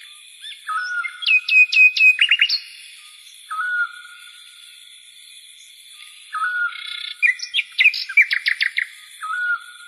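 A songbird singing, the song repeated about every three seconds: each phrase opens with a low, short note and runs into a quick series of higher, sharp chirps. A faint steady high hiss sits underneath.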